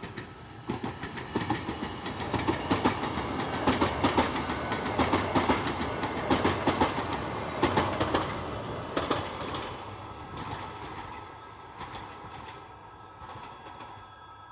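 A train passing on the line, its wheels clicking rapidly over the rail joints; it builds to a peak in the middle, then fades as the train moves away.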